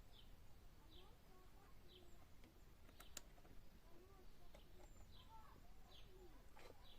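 Near silence with faint birds calling in the background: a short high chirp repeated about once a second, with softer warbling calls beneath. Two faint clicks come about halfway through.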